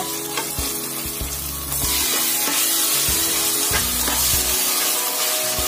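Chopped tomatoes tipped into onions frying in hot oil in an aluminium pressure cooker, sizzling; the sizzle gets louder about two seconds in as the tomatoes hit the oil. A few clinks of a steel spoon against the pot.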